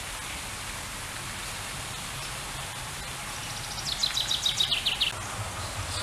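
Steady outdoor hiss, with a songbird's short, rapid series of high notes falling in pitch about three and a half seconds in, lasting under two seconds.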